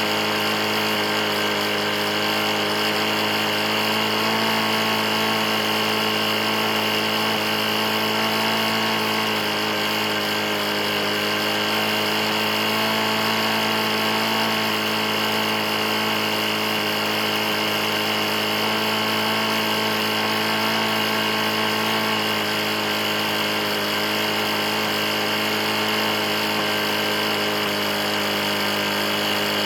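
Briggs & Stratton E450 mower engine running steadily, with the bad knock of a worn engine.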